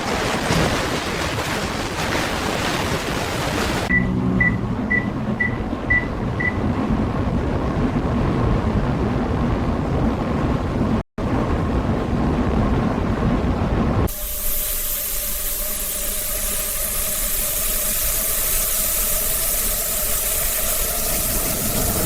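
Subway train noise, a steady rumble and hiss, with six quick high beeps about four seconds in; from about fourteen seconds on it turns brighter and hissier.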